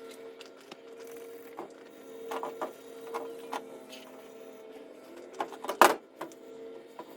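Brillo steel-wool pad scrubbing rust off steel roll bar tubes: scattered short rubbing strokes and clicks, with one sharp knock about six seconds in, over a steady hum.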